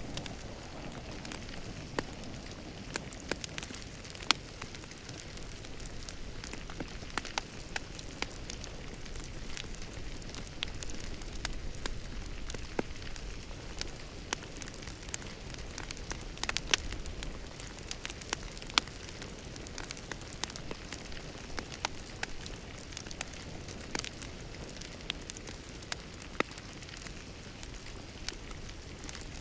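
Fire in a fireplace crackling: a steady hiss of flames with irregular sharp pops and snaps.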